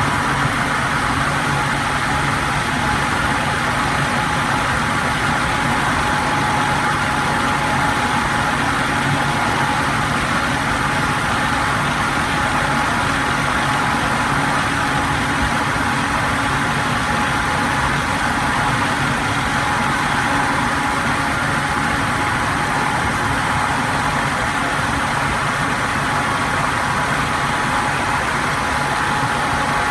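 Electric fan running steadily: an even rush of moving air with a constant low hum and a thin, steady whine.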